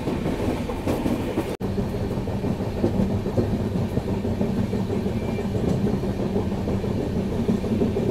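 Express train of LHB coaches running on the track: a steady rumble and hum with some clickety-clack from the wheels. The sound drops out for an instant about one and a half seconds in.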